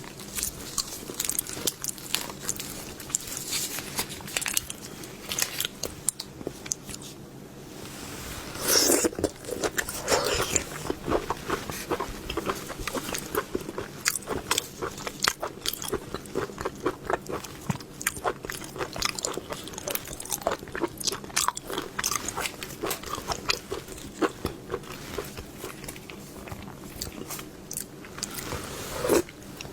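Close-miked eating of seafood: repeated crunchy bites and chewing, with many small crisp clicks and a louder crunch about nine seconds in.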